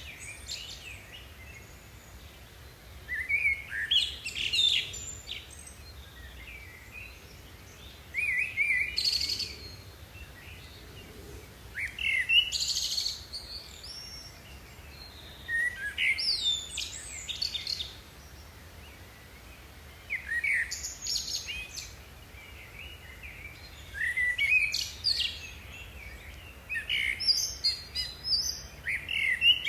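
Bird singing in short, varied phrases, each one to two seconds long, repeated about every four seconds.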